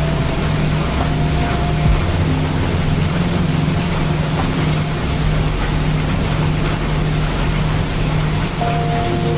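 Steady heavy rain sound mixed with brown noise: an even hiss over a constant low rumble. Faint held notes of soft ambient music come and go, more of them near the end.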